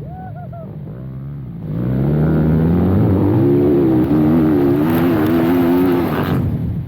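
Dirt-bike engine accelerating hard: it picks up about two seconds in, its pitch climbs and then wavers at high revs as the throttle is worked, and it falls back when the throttle is closed near the end.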